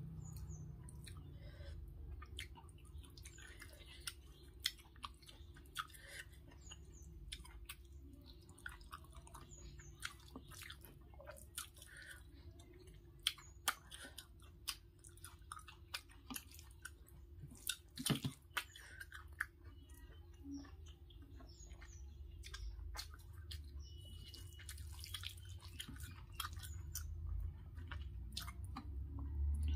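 A person eating rice and vegetable curry by hand, close to the microphone: chewing, with many small wet clicks and smacks scattered through it.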